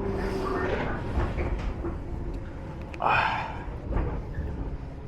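Inside a moving commuter train: a steady low rumble, with a short hiss about three seconds in and a few knocks, like the sliding doors working at a stop.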